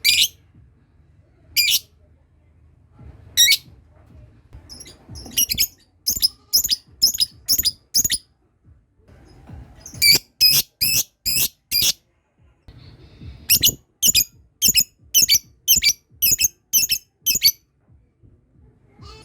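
Lovebirds' sharp, high-pitched calls: single calls about every two seconds, then three runs of rapid calls at about two a second, the repeated 'ngekek' call.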